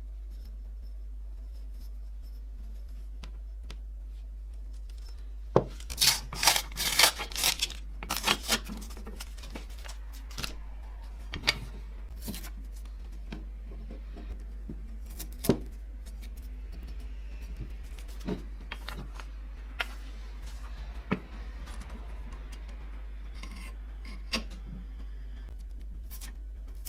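Workshop handling sounds: a quick run of sharp clicks and scrapes about six to eight seconds in, then scattered single clicks and light rubbing, over a steady low hum.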